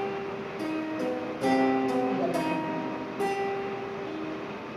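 Slow instrumental music of plucked guitar notes, single notes and small chords struck every half second or so and left to ring out.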